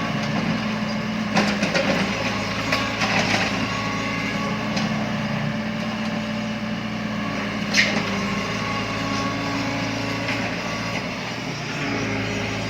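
Excavator's diesel engine running steadily, with a spell of knocking and clattering as material is moved, and one sharp clank near the middle.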